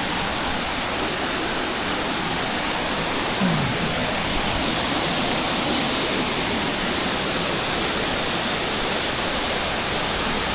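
Waterfall water rushing and splashing in a steady, unbroken wash.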